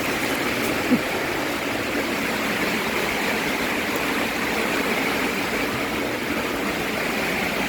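Heavy rain falling steadily, an even rushing hiss, with a single short knock about a second in.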